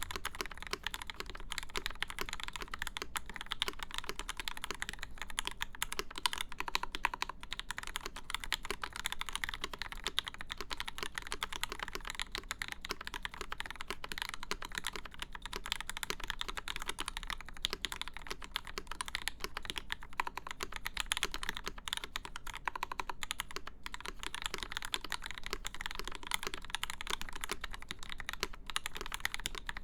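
Steady, fast typing on a custom mechanical keyboard: lubed Gateron Ink linear switches in an aluminium plate, with GMK doubleshot ABS keycaps, giving dense, continuous key clacks.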